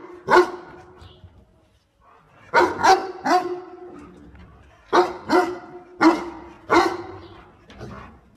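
A dog barking in short runs of two or three barks, about nine in all, the last one weaker.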